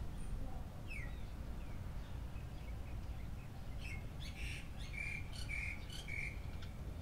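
Small birds chirping: one falling chirp about a second in, then a quick run of high chirps and whistles from about four to six seconds, over a low steady background rumble.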